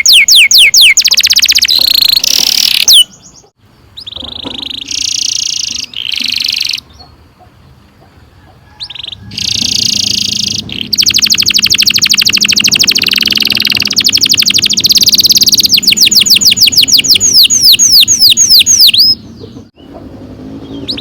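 Domestic canary singing long rolling trills: fast runs of repeated high, downward-sweeping notes broken by short pauses, with one long unbroken roll through the second half.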